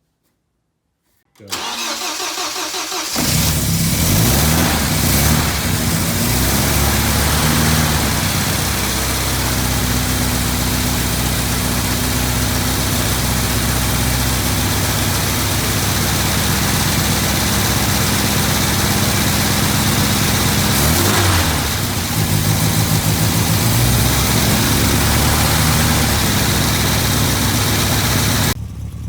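A 1972 MGB's four-cylinder engine is cranked by the starter for about two seconds on a cold start, catches, and settles into a loud, steady idle. Its speed dips briefly about two-thirds of the way through.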